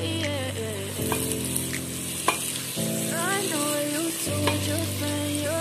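Spoon stirring spiced bottle gourd and chana dal frying in oil in a pressure cooker, with a steady sizzle and scraping against the pan as the garam masala is mixed in, over soft background music.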